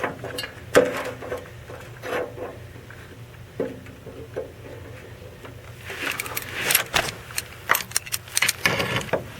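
Scattered metallic clicks and taps, then a busier run of clinking and rattling from about six seconds in: the outer nut of a Ford 7.3 PowerStroke oil dipstick tube adapter being worked loose by hand, with the tube held by a wire brush.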